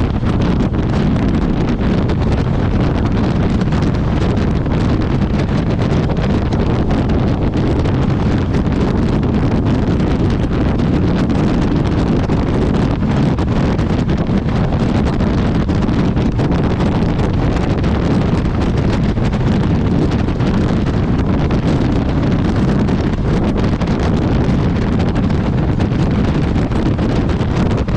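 Steady wind noise buffeting the microphone on a motorcycle moving at speed, with no break or change.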